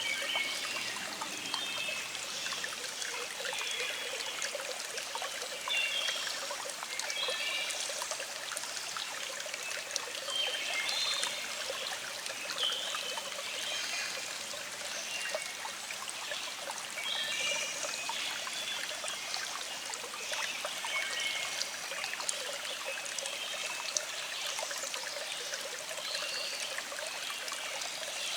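Small stream trickling and flowing steadily over rocks, with birds singing in short repeated chirps over the water throughout.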